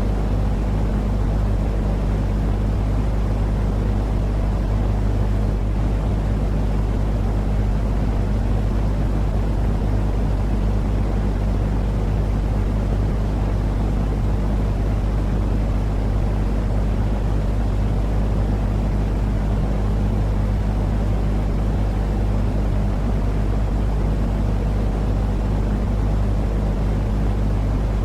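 Constant white-noise sleep sound for a baby: a steady, unchanging rumbling drone, heaviest in the low end, with a low hum running through it.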